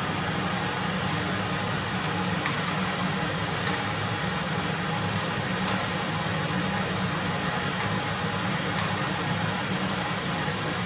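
Scallops sizzling steadily as they sear in foaming fat in a nonstick frying pan, with a few light clicks of a metal utensil against the pan as they are turned. The sharpest click comes about two and a half seconds in.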